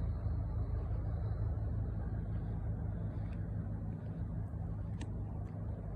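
An engine running steadily, a low even hum, with a couple of faint clicks.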